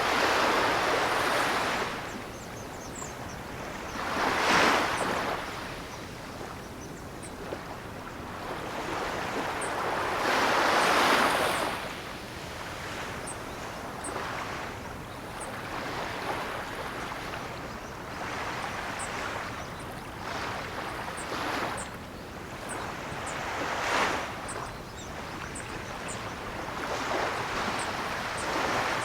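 Ocean waves breaking and washing on the shore in slow, uneven surges, with the biggest swells a few seconds apart near the start, around the middle of the first half, and again late on.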